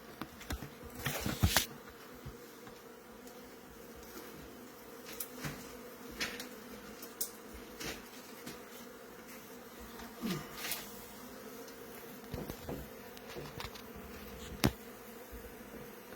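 Honeybee colony buzzing steadily as a low, even hum, with scattered short clicks and knocks throughout.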